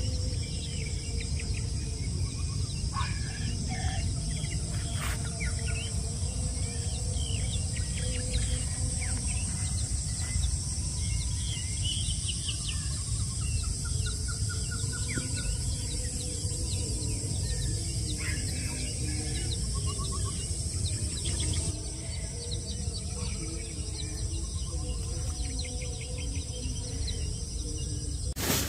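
Many small birds chirping and calling over a steady high insect drone, with a constant low rumble underneath. The insect drone drops back about three quarters of the way through.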